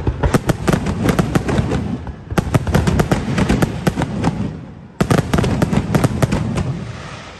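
Fireworks show: rapid volleys of sharp bangs and crackles come in three bursts with short lulls between them. The last burst starts suddenly about five seconds in and fades out.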